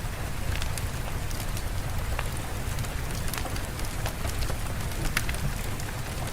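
Steady rain, with a low rumble underneath and many scattered sharp ticks of drops.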